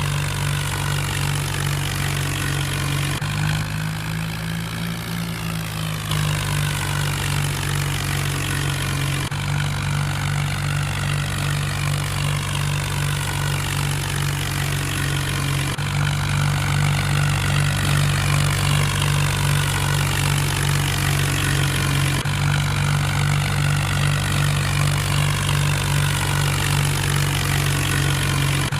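Mahindra tractor's diesel engine running steadily at a constant speed. Its tone shifts abruptly a few times, with a brief dip in level at about 3 to 6 seconds in.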